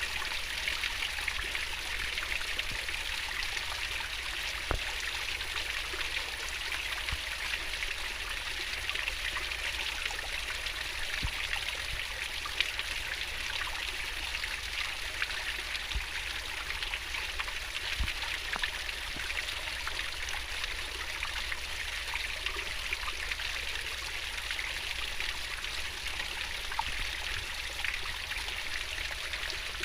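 River water flowing swiftly, a steady babble and rush with small splashes scattered through it.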